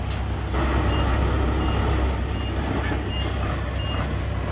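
A heavy diesel machine's reversing alarm beeping, short high beeps about every three-quarters of a second, over the steady low running of its engine. A brief hiss sounds right at the start.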